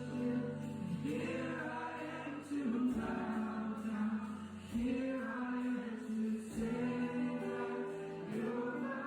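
A group of voices singing a slow song with accompaniment, long held notes that change about every two seconds.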